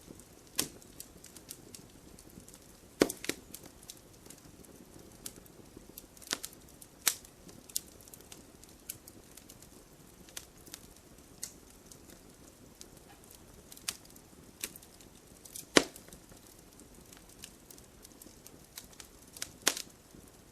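Campfire crackling: burning wood gives off scattered sharp pops and snaps over a soft steady hiss. There is one loud snap about three seconds in and two more toward the end.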